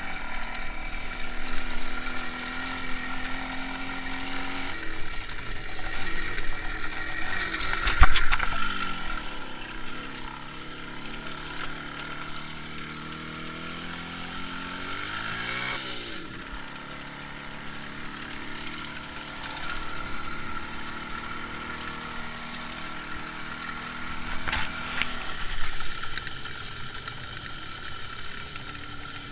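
IZh Jupiter-5 motorcycle's two-stroke twin-cylinder engine running under way, the revs rising and falling with throttle and gear changes. There is a sharp knock about eight seconds in.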